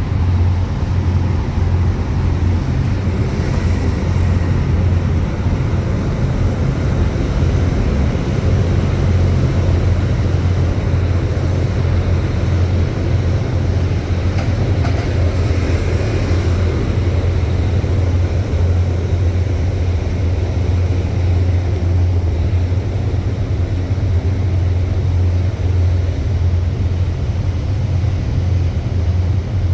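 Steady low rumble of city street traffic, with a brief swell of hiss about halfway through, as of a vehicle passing.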